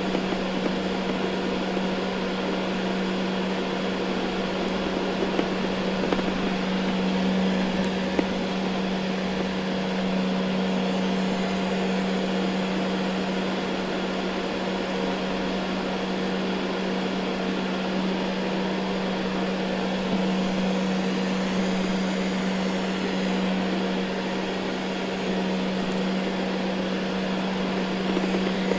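Ecovacs Deebot N79 robot vacuum running over carpet: a steady motor hum with one strong low tone under an even whir of suction and brushes, with a few faint clicks.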